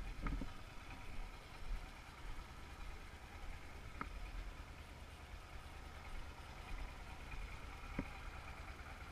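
Yamaha TDM850 parallel-twin engine idling steadily at the kerb, with three short light clicks about four seconds apart.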